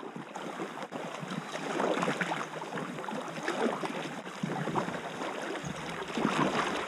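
River water rushing and splashing over stones in a shallow, rocky riffle around a packraft, a steady rush dotted with small splashes.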